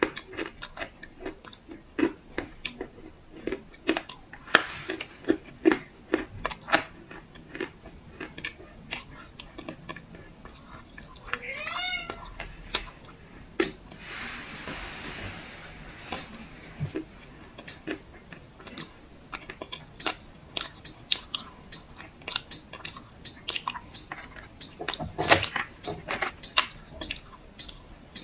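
Close-miked crunching and chewing of hard clay, a steady run of sharp crunches and bites. About twelve seconds in, a cat gives a short rising meow.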